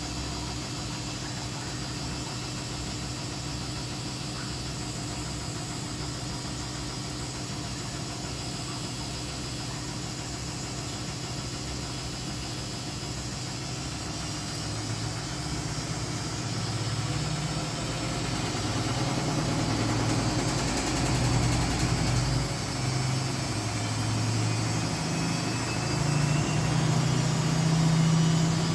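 Washing machine running: a steady motor hum that grows louder and more uneven from about halfway through.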